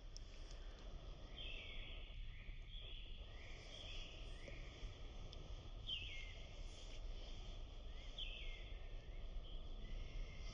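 A bird calling repeatedly, each call a short phrase that falls in pitch, coming every second or two, over a steady low outdoor rumble.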